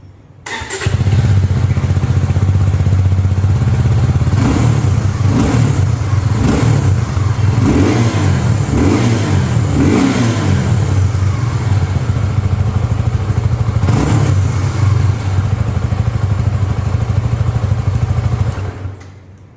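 Suzuki Gixxer SF 250's single-cylinder engine running through its exhaust, with a run of short throttle blips in the middle. It starts about half a second in and fades out near the end.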